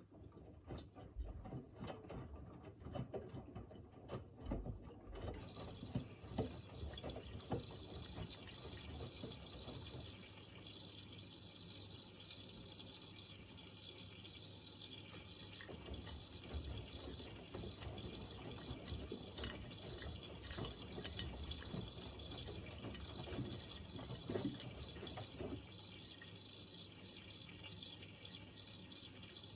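Miele Navitronic W3985 WPS washing machine taking in water. Clicks and knocks for the first few seconds, then a steady rush of water flowing in from about five seconds in.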